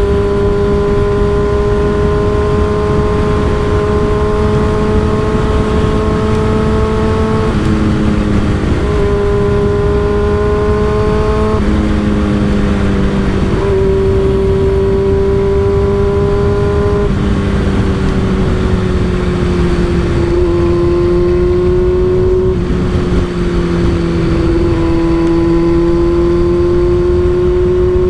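Motorcycle with an M4 aftermarket exhaust cruising at steady revs. Its engine note dips briefly and picks up again several times, as gear changes or throttle changes would make it, with steady wind rush across the microphone.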